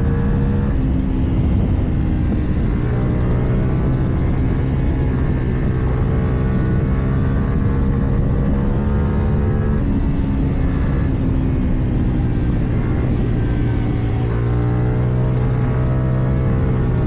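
KTM 790 Duke parallel-twin engine with an Akrapovic exhaust, running under way; the engine note holds steady in stretches and rises and falls with the throttle, over steady wind and road noise.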